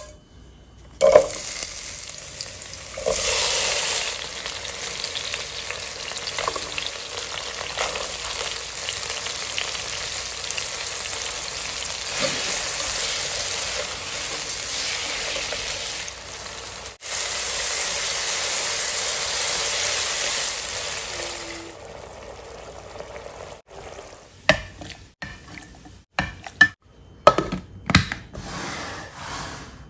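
Whole spices, then chopped onions and tomatoes, sizzling in hot oil in a nonstick pan while a spatula stirs them. The sizzle stops about two-thirds of the way through, and a run of sharp knocks and clinks follows near the end.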